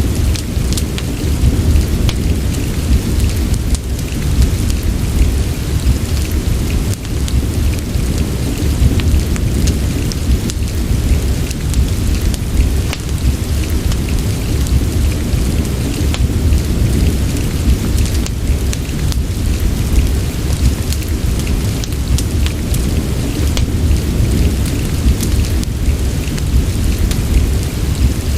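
Steady rain ambience with a deep, continuous rumble, mixed with a fireplace crackling in many small, scattered pops.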